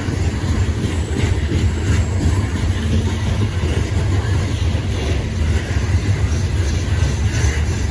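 Freight train rolling past, a steady low rumble of railcars on the track.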